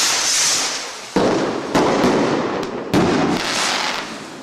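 Fireworks going off: a loud hissing rush for about the first second, then a string of sharp bangs, each followed by a crackling decay.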